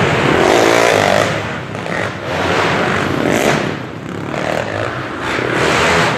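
Motocross dirt bike engines revving hard as the bikes go by, the pitch climbing in the first second and the sound swelling and fading several times.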